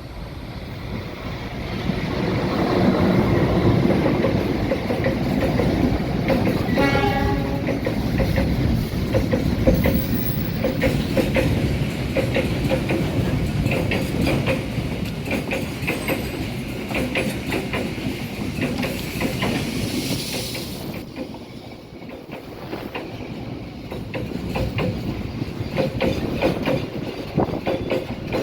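Train running past at close range, its wheels clicking rhythmically over the rail joints; the sound swells a couple of seconds in and eases off near the end before building again. A short horn blast sounds about seven seconds in.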